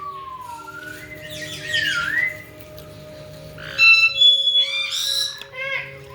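Caique parrots whistling and squawking: sliding whistles rising and falling in pitch, then a louder burst of whistles and harsh squawks about four to five seconds in, followed by a quick string of short calls.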